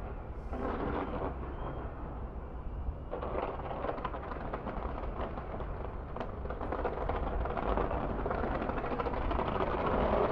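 Distant New Year's fireworks booming and crackling continuously, many bursts overlapping into a rumble that builds towards the end.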